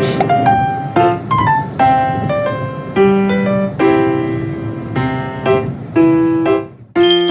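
Background piano music: a melody of struck notes at a moderate pace, briefly dropping away just before the end.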